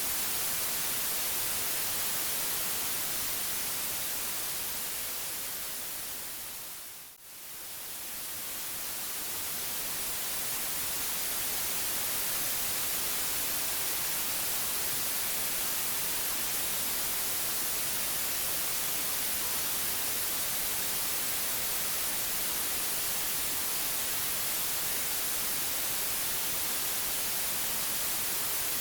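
Synthetic white noise: a steady, even hiss, strongest in the highs. It fades down to a brief dip about seven seconds in, then swells back up to full level over the next few seconds.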